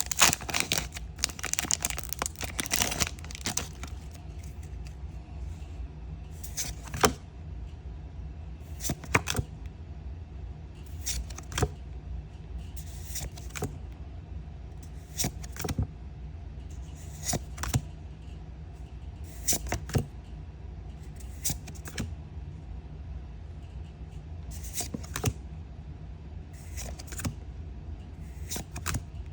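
Magic: The Gathering collector booster pack being opened: the foil wrapper crinkles for the first few seconds, then trading cards are flicked over one at a time, a short sharp snap about every two seconds, over a low steady hum.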